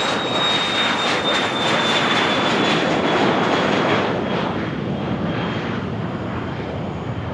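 Cessna 560XL Citation Excel's twin turbofans going by: a dense jet rush with a high whine that slowly falls in pitch, fading after about four seconds.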